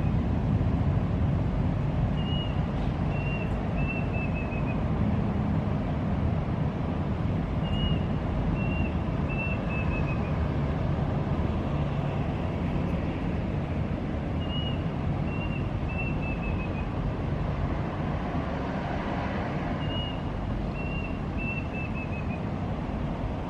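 An unidentified bird calling at night. About every six seconds it gives a phrase of two short high notes followed by a quick run of four or five notes that fall slightly in pitch; four phrases are heard, over a steady low background rumble.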